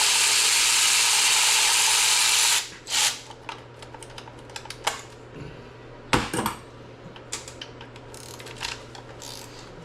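A power tool running steadily as bolts come out of an LS engine block, cutting off after about two and a half seconds, followed by scattered metallic clicks and knocks of tools and parts.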